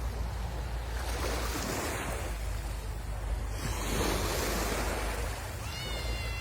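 Sea waves washing and breaking on the shore, swelling and ebbing, with wind rumbling on the microphone. A brief high tone sounds near the end.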